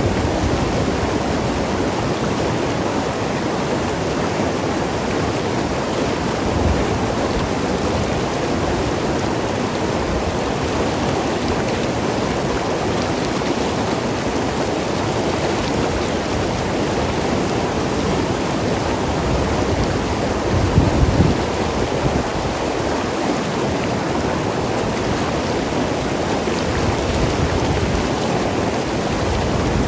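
Mountain river rushing and gurgling over rocks in a steady, dense flow, with a brief deeper surge about two-thirds of the way through.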